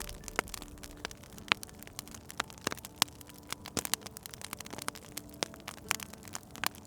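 Wood fire crackling, with irregular sharp pops and snaps over a soft, steady background hiss.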